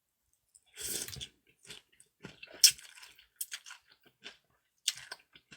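Close-up eating sounds: a person chewing and biting through a mouthful of food, a string of short wet clicks and crunches with a longer noisy burst about a second in.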